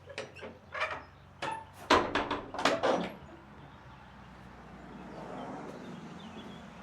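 Church door being worked: a run of clicks, clunks and knocks from the latch and door over about three seconds, the loudest about two seconds in.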